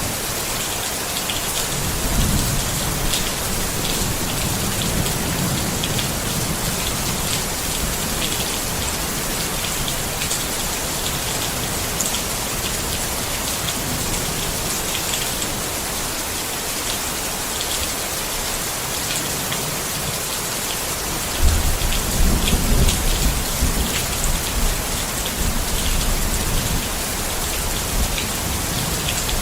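Steady rain falling on a tent, with many distinct drops ticking on the fabric. A low rumble of thunder sets in suddenly about two-thirds of the way through and lasts a few seconds.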